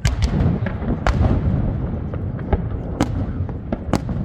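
Fireworks display: a rapid series of bangs and crackles over a continuous low rumble, with sharp reports right at the start, about three seconds in and near the end.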